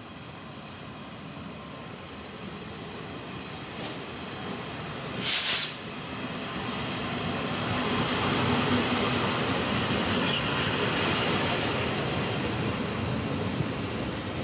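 Freight train with an electric locomotive and a diesel locomotive at its head running through a station without stopping: its rumble builds as it approaches, with a steady high-pitched wheel squeal, loudest as the locomotives pass about ten seconds in, then easing. A short, sharp burst of noise comes about five seconds in.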